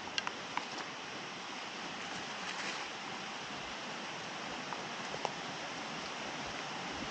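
Steady rushing of a stream and waterfall down below, with a few faint clicks near the start and about five seconds in.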